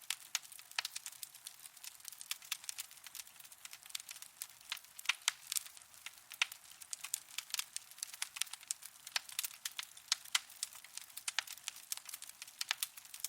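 Fire burning in a fireplace, crackling with rapid, irregular sharp pops and snaps.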